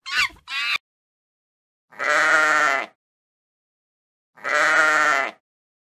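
A sheep bleating twice: two long, quavering baas about two and a half seconds apart.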